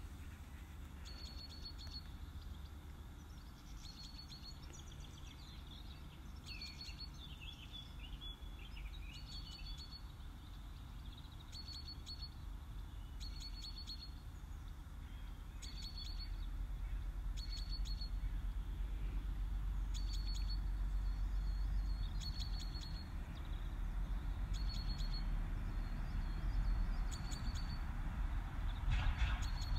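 Outdoor ambience: birds chirping, one repeating a short high call every second or two, with a few gliding song notes, over a low rumble that grows louder about halfway through.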